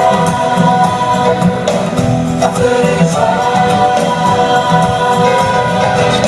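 Choir singing a gospel-style Christian song over band accompaniment with a steady beat.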